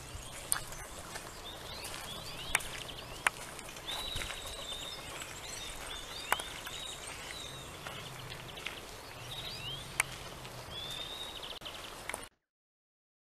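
Small birds chirping and twittering in short high calls and trills, over a faint low hum, with several sharp clicks standing out as the loudest sounds. The sound cuts off abruptly about twelve seconds in.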